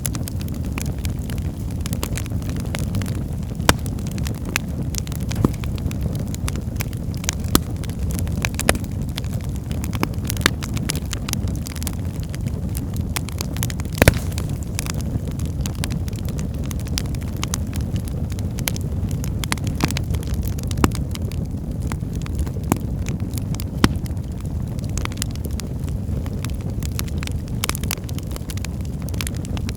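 Wood fire in a fireplace burning with a steady low rumble and frequent sharp crackles and pops, one louder pop about halfway through.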